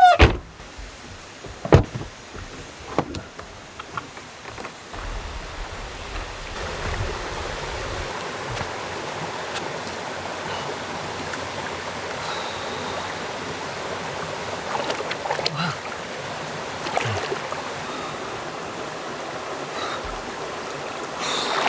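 Mountain stream water running steadily, growing louder from about five seconds in, with a few sharp knocks in the first three seconds.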